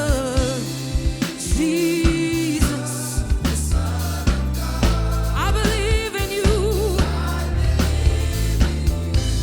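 Gospel worship music: a singer's held notes with vibrato come and go over a drum kit and bass keeping a steady beat.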